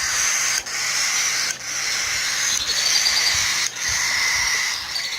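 White-faced baby cockatiels giving their hissing food-begging calls: a run of long, raspy hisses with short breaks between them. It is the begging sound of unweaned chicks, which they grow out of.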